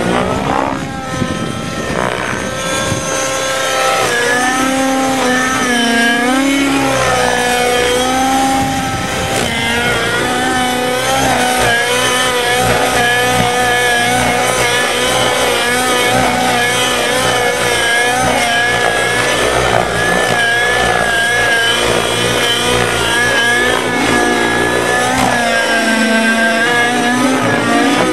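An engine running at high revs, its pitch sweeping up and down every few seconds, with a deep dip and rise near the start and again near the end.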